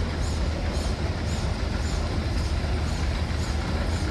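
Steam traction engine running at a slow parade pace: a steady low rumble with a faint regular beat about twice a second.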